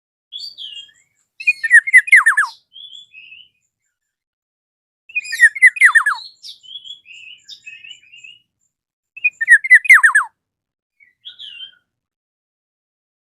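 Black-naped oriole calling: three loud phrases of quick falling notes about four seconds apart, each followed by softer, higher chirps.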